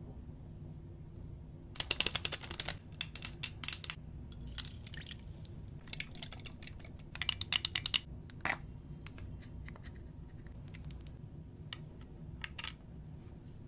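Plastic toy packaging crinkling and crackling as it is opened and handled, in several short bursts of rapid clicks with single ticks between, over a low steady hum.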